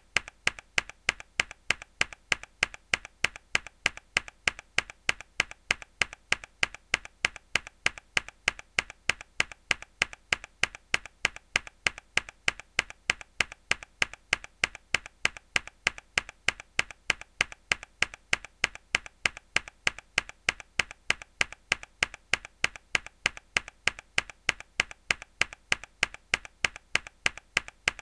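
A single hard key press on a mechanical keyboard, repeated as a loop: sharp, bright clicks at an even, quick rhythm.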